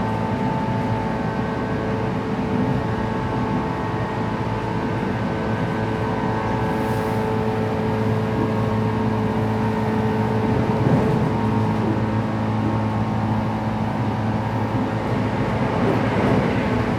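Inside a JR West 117 series electric train running at about 110 km/h: a steady whine from the traction motors over the rumble of the wheels on the rails.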